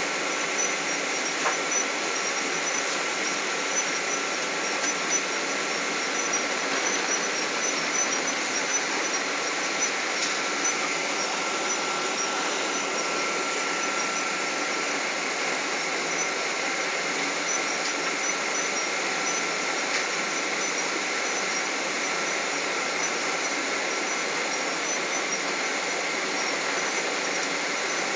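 Steady cabin noise inside a Boeing 777 airliner: an even rush of air and engine noise with a thin high whine running through it, holding at one level with no spool-up, as with the engines at low power before the takeoff roll.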